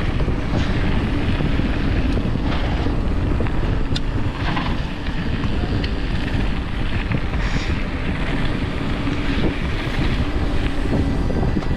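Mountain bike rolling down a wet forest trail, tyres rumbling over the rough ground with wind buffeting the microphone, and a few short clicks and rattles from the bike.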